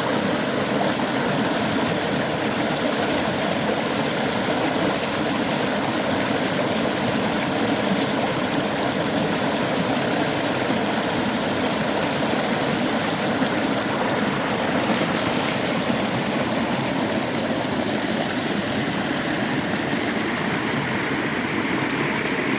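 Mountain stream water running and splashing over rocks in a steady, even rush.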